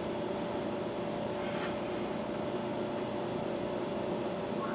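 Steady mechanical hum with one constant tone, with a faint tick about a second and a half in.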